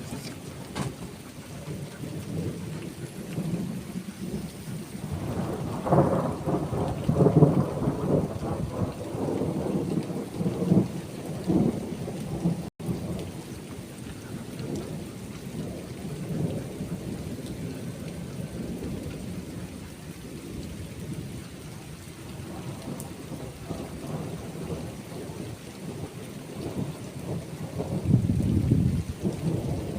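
Steady rain falling, with rolling thunder. The rumble swells from about five seconds in to about twelve seconds in, eases, then builds again near the end. There is a split-second gap in the audio about thirteen seconds in.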